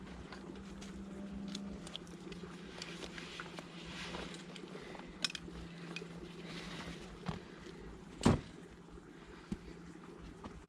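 Fishing tackle being handled while setting up on the bank: scattered light clicks and knocks, with one sharper, louder knock about eight seconds in, over a faint steady low hum.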